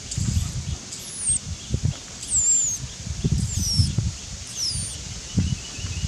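A bird's high, thin calls sliding downward in pitch, about four of them roughly a second apart, over low rustling and bumping of leaves and branches.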